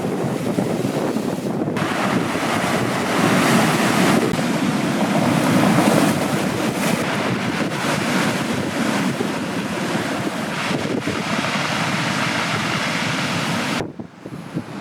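Heavy ocean surf breaking and washing on the shore, with wind buffeting the microphone; the sound drops away suddenly near the end.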